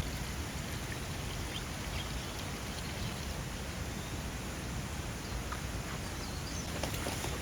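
Steady rushing of water, the hiss of heavy rain and a swollen valley stream, with a low rumble underneath.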